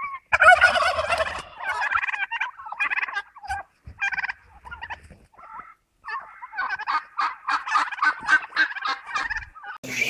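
Domestic turkey toms gobbling: several quick rattling gobbles, a short pause about five seconds in, then a longer run of rapid gobbling.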